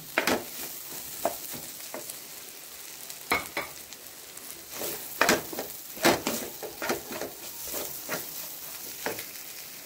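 Egg, onion and fish masala sizzling in a kadai as a wooden spatula stirs through it: a steady frying hiss with irregular scrapes and taps of the spatula against the pan.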